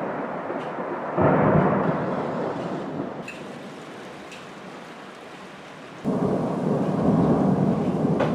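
Thunder during a thunderstorm: two loud cracks of thunder break in suddenly, about a second in and again about six seconds in, and each rolls on and slowly fades. Steady rain hisses underneath.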